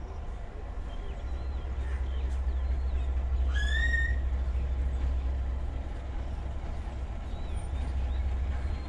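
Steady low rumble of a train running, with faint bird chirps and one short rising whistle about three and a half seconds in.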